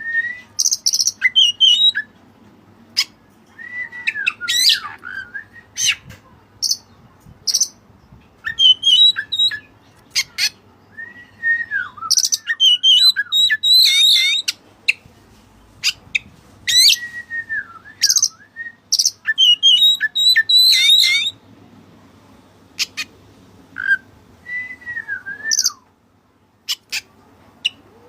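Oriental magpie-robin singing in bursts of varied, loud whistled phrases, with curving glides and quick sharp high notes, broken by short pauses.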